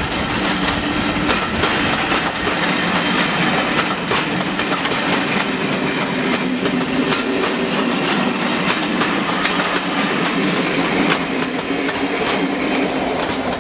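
A train of Pullman coaches rolling past at close range, its wheels clicking steadily over the rails with a continuous rumble.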